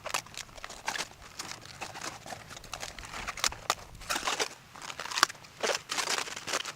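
Irregular rustling and crinkling, a run of short, uneven crackles and scrapes with no steady rhythm.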